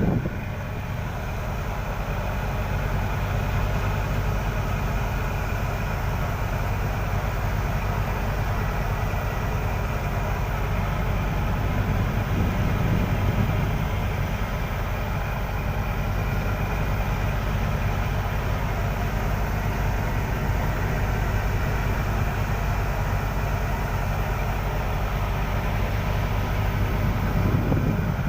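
Fishing boat's engine running steadily under way, a constant low drone that neither rises nor falls.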